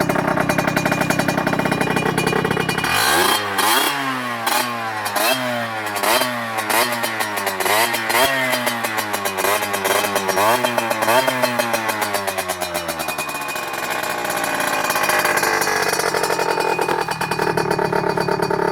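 Derbi 50cc two-stroke motorcycle with a stock cylinder, 17.5 carburettor and aftermarket carbon exhaust: idling, then revved in quick blips about once a second for some ten seconds, then settling back to idle.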